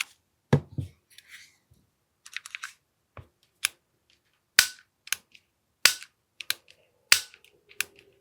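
Sharp plastic-and-metal clicks and snaps from an AAP-01 airsoft pistol's parts being worked by hand, about a dozen, spaced irregularly half a second to a second apart, with a duller knock about half a second in. The loudest clicks come in the second half.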